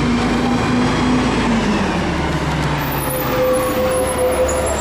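City bus pulling in to a stop: its engine note drops as it slows, and a high brake squeal starts about three seconds in.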